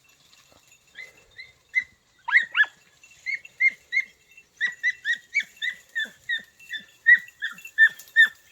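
Podenco puppies giving tongue (latido) while trailing rabbit: short, high-pitched yelps. A few come at first, then from about three seconds in they arrive in a quick string, about three a second.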